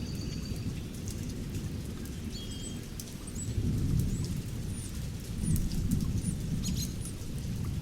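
Thunderstorm recording: low thunder rolling over steady rain, swelling twice in the second half, with birds chirping in short high calls above it.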